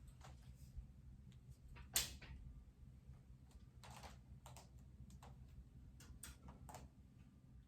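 Faint, scattered light taps and clicks over a low steady hum, the sharpest about two seconds in.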